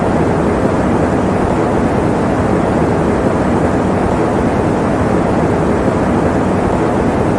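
Electric fan running: a steady, unbroken hiss, strongest in the low and middle pitches, used as sleep white noise.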